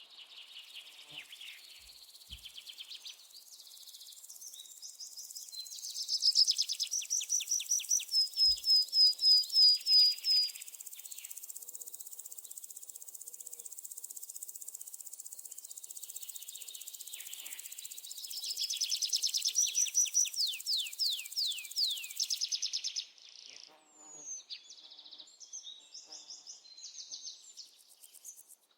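Small birds chirping in fast trills of repeated high, down-slurred notes, loudest in two bursts about a quarter and two thirds of the way through, over a steady high insect buzz that cuts off suddenly near the end; scattered chirps follow.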